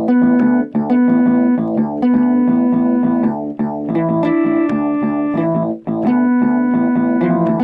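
Instrumental music on an electronic keyboard with an electric-piano-like sound, held notes and chords changing every second or so, with short percussive clicks through it.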